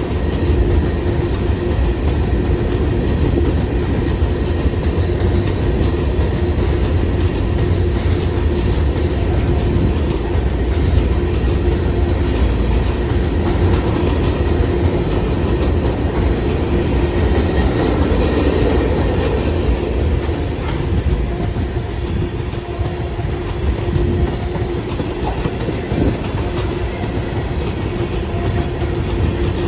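Cars of a long freight train rolling steadily past: a continuous heavy rumble of steel wheels on the rails, with wheel clatter and a faint steady whine running through it.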